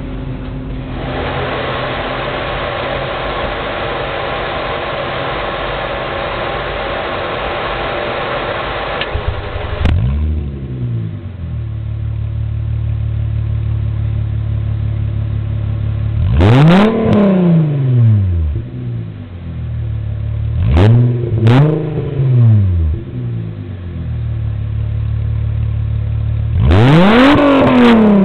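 Volkswagen 2.8 VR6 engine through a straight-pipe exhaust with cat and resonator but no muffler. After about ten seconds of steady rushing noise, it idles and is revved: a short blip, a big rev that rises and falls, two quick blips, and another big rev near the end.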